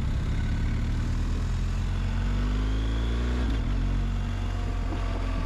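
Motorcycle engine pulling under acceleration, its pitch rising for over a second and then dropping at an upshift about three and a half seconds in, with wind rush over the riding microphone.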